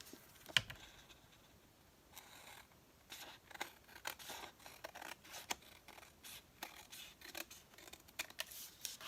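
Scissors snipping through paper in a quick, irregular run of short cuts, beginning about three seconds in after a single sharp click.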